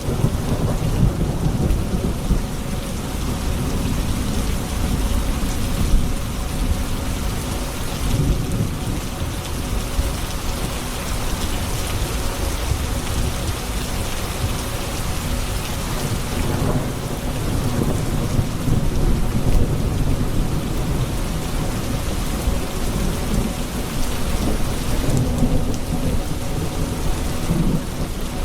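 Thunderstorm: steady heavy rain with a continuous low rumble of thunder.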